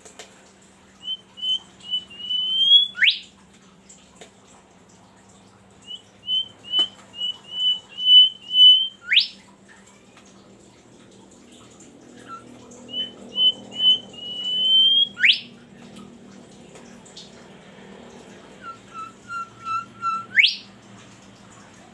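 A songbird singing in repeated phrases: each is a quick run of short whistled notes followed by a fast rising whistle, four phrases in all, the last one pitched lower.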